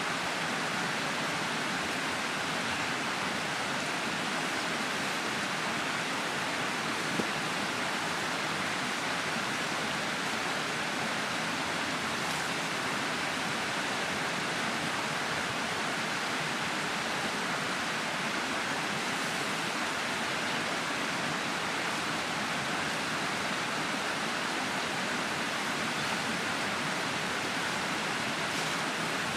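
Steady, even rushing noise that does not change, with one small knock about seven seconds in.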